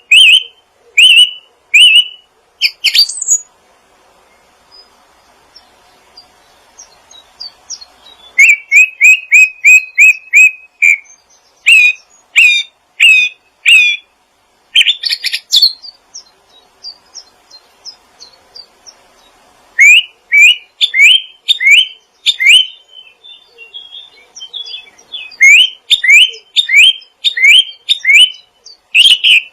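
A small songbird chirping in quick runs of short, sharp, rising notes. It gives three bouts, with pauses of a few seconds between them.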